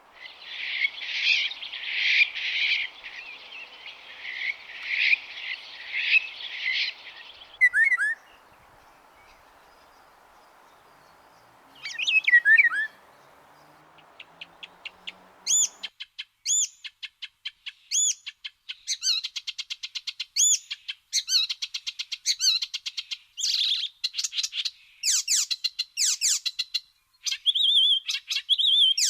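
Songbirds singing: a fast trilled phrase, a few short down-slurred calls, then from about halfway a busy run of quick repeated chirps and trills.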